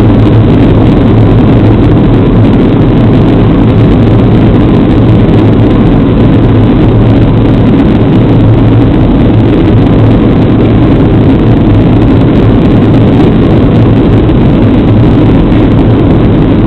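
Boeing 737 cabin noise in flight on approach: the steady, low drone of the turbofan engines and the air rushing past the fuselage, heard from inside the cabin, with a faint steady whine above it and no change in pitch or level.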